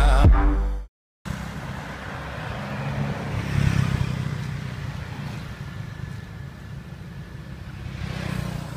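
Electronic background music that cuts off abruptly within the first second, followed after a brief gap by a steady low outdoor rumble and hiss.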